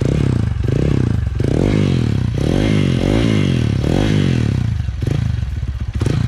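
Hero XPulse 200's single-cylinder engine running through an aftermarket Akrapovic silencer, blipped repeatedly so the exhaust note rises and falls in pitch. A deep, bassy note.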